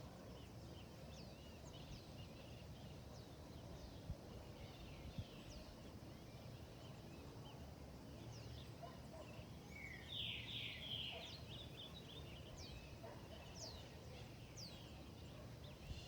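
Wild birds chirping, with many short, high, falling calls, and one bird giving a rapid run of notes about ten seconds in, over a faint low background rumble.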